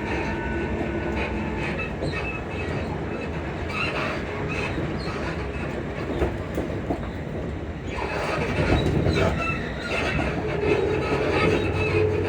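Class 334 electric multiple unit running, with steady wheel-and-rail noise and repeated short high squeaks from its suspension. The running noise gets louder about eight seconds in.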